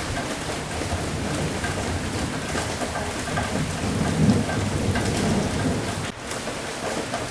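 Steady heavy rain falling, with a low rumble of thunder that swells in the middle and fades out.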